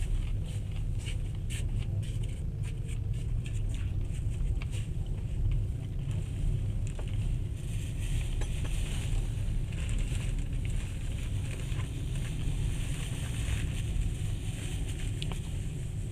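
Passenger train running along the track, heard from inside the carriage: a steady low rumble of wheels on rails with a hiss above it and scattered clicks and rattles, most of them in the first few seconds.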